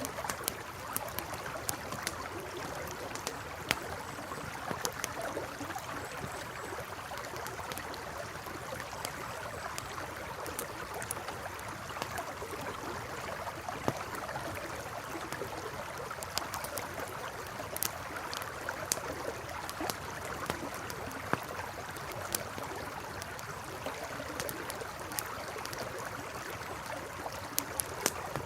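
A river or stream flowing steadily, with a campfire crackling: sharp, irregular pops scattered throughout.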